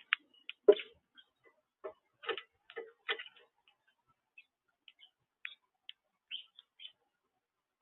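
Birds at a backyard seed feeder pecking and shuffling: irregular taps and clicks on the feeder, a cluster of them in the first half and sparser, lighter ticks after.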